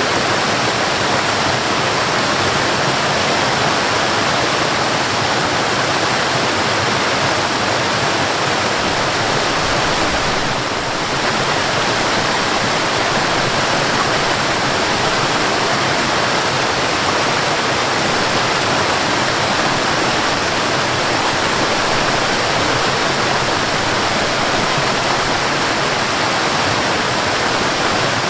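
Waterfall: a steady, dense rush of falling water with no change in character, dipping slightly in level for a moment about eleven seconds in.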